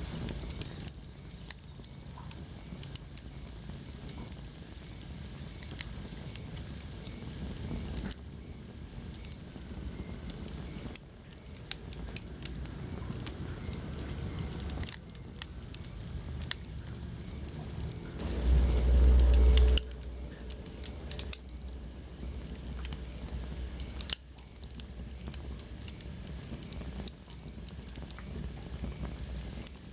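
Wood fire crackling in a fireplace: frequent sharp pops and snaps over a soft, steady hiss of burning. About two-thirds of the way through, a brief low rumble lasts about a second and a half and is the loudest sound.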